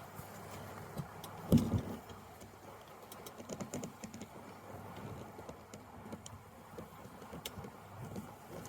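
Handling noise: one dull thump about one and a half seconds in, then scattered light clicks and taps.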